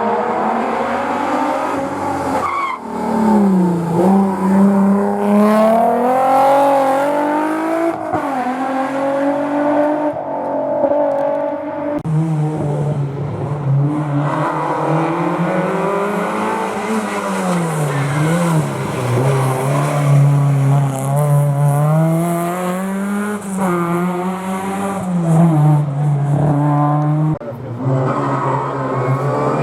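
Historic rally car engines revving hard through a tight hairpin. The engine note climbs and drops again and again with throttle and gear changes, and the sound changes abruptly a few times as one car gives way to the next.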